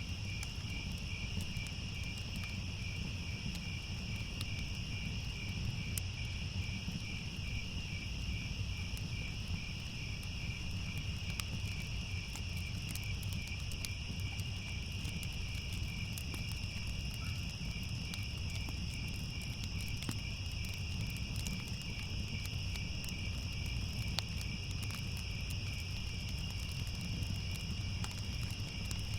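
Crickets chirping in a steady night chorus, one of them in an evenly pulsing trill, over a constant low rumble with scattered faint crackles of a fire.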